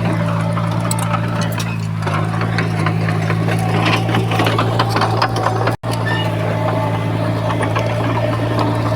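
Heavy construction machine's diesel engine running steadily with a low drone, with light clanks and rattles over it. The sound cuts out for an instant a little past halfway.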